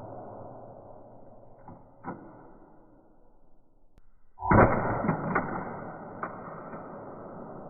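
Boot stomps crushing a toy fire truck: two light knocks, then about four and a half seconds in a heavy crunching hit followed by a few smaller cracks, each trailing off slowly.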